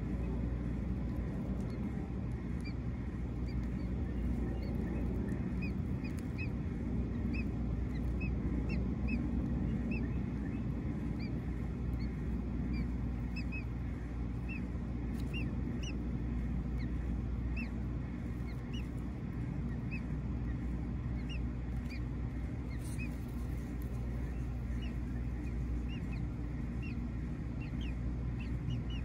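Short, high bird chirps repeating about once or twice a second, over a steady low rumble.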